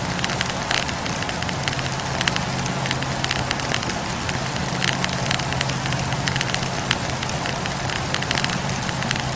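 Wood campfire crackling, with frequent irregular pops from the burning logs over a steady low hum.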